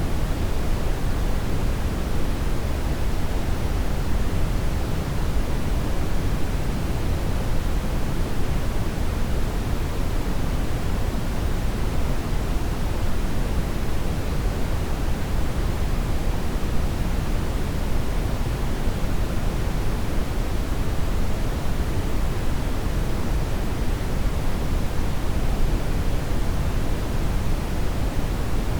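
Steady brown noise: an even, unchanging rush of noise, strongest in the bass and fading toward the highs.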